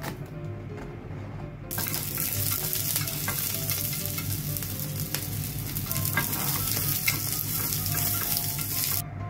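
A knife cutting green peppers on a cutting board, then, about two seconds in, sliced green peppers sizzling as they fry in a square tamagoyaki pan. The steady sizzle cuts off near the end. Light background music plays underneath.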